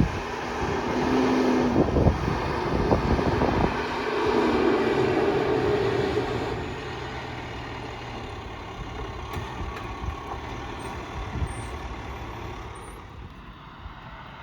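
A heavy vehicle's engine running close by over a noisy hiss, dropping away about six seconds in and fading out.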